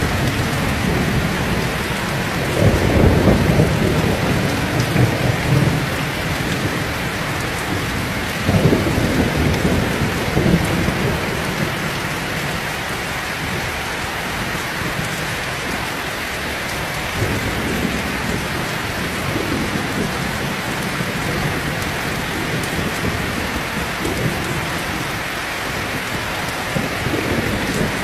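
Heavy rain falling steadily, with low rolls of thunder that swell a few seconds in and again around nine seconds in, and fainter rumbles later.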